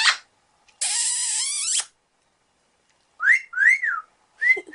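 Eclectus parrot calling: a harsh, noisy squawk lasting about a second, then two short whistles that each rise and fall in pitch near the end, with a third just starting.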